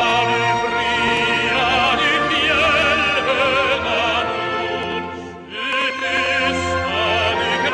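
Operatic singing with heavy vibrato over sustained accompaniment, with a short break between phrases about five and a half seconds in.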